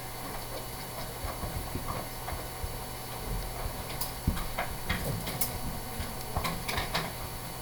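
Quiet classroom room tone: a steady low hum with scattered faint clicks and taps.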